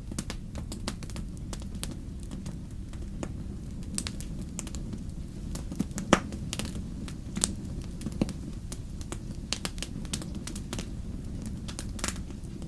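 Wood fire crackling in a fireplace: a steady low rumble of flame with scattered sharp pops and snaps, the loudest pop about six seconds in.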